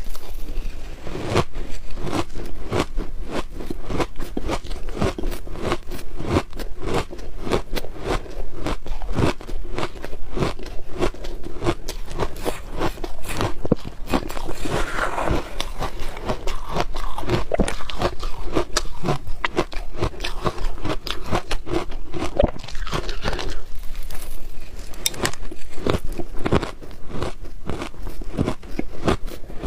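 A person biting and chewing frozen shaved ice close to the microphone: rapid, continuous crunching with many crisp crunches a second.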